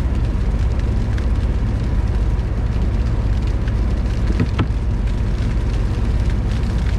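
A loud car engine and exhaust running steadily, a deep even rumble heard from inside the car.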